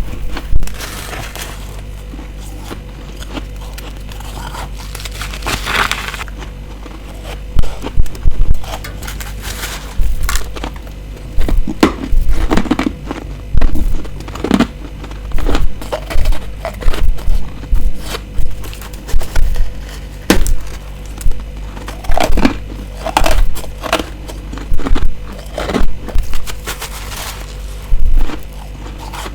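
Close-miked bites and crunching of freezer frost, loud crisp crunches coming in quick clusters every second or two, over a steady low hum.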